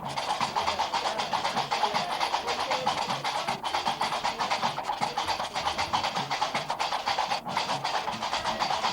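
Gnawa music: qraqeb iron castanets clattering in a fast, steady, unbroken rhythm, with low bass notes underneath.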